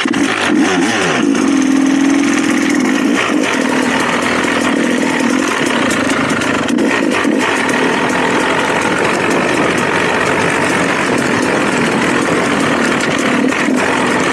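Dirt bike engine revving in the first second or so, then running at a fairly steady pitch.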